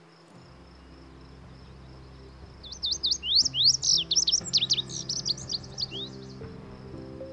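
A songbird singing a rapid song of many quick, steeply rising and falling notes, starting about two and a half seconds in and lasting about three and a half seconds. Under it run soft background music with sustained chords and a steady high insect drone.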